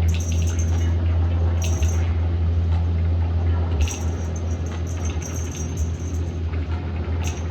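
Light metallic jingling and clinks of a cat toy in several short bursts, the longest cluster in the middle, over a steady low hum.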